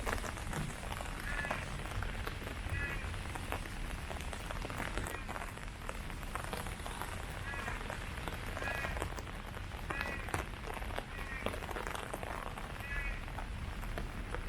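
Steady rain falling on leaves, a dense patter of drops. Through it a small animal gives a short chirping call about every second or two.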